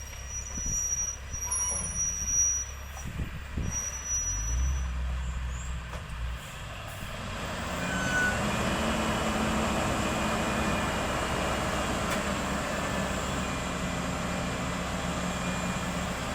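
Heavy road-construction machine's diesel engine, idling low with a few knocks at first, then revving up about seven seconds in and running steadily under load. A high-pitched beep sounds on and off in the first few seconds.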